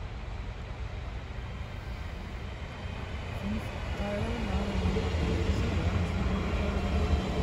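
Red DB Regio multiple-unit train running into the station and past along the platform, a steady low rumble that grows louder about halfway through. A wavering mid-pitched tone joins it at about the same time.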